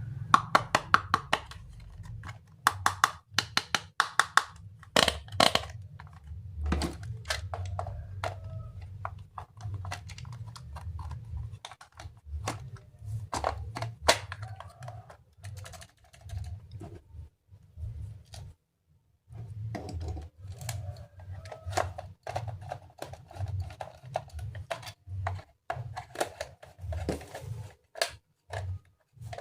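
Plastic toy parts clicking and knocking irregularly as they are handled and fitted together, with a low rumble of handling noise.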